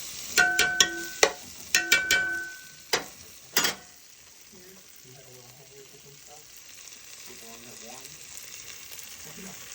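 A metal utensil clanks and rings against a pan while stirring curry powder toasting in butter, with several sharp strikes in the first few seconds. After that comes a faint, steady sizzle as the spices brown.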